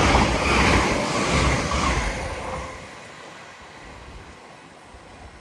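LNER Azuma (Hitachi 800-series) express train passing through at speed with a loud rush of wheels on rail and air, dying away about three seconds in as the train goes by.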